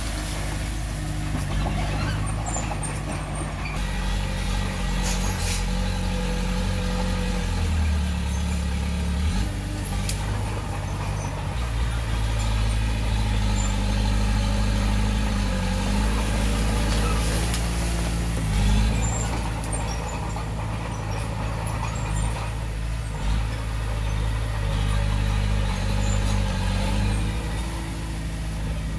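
Diesel engine of heavy earthmoving equipment running steadily, its pitch rising and falling as the load changes, with a few brief knocks.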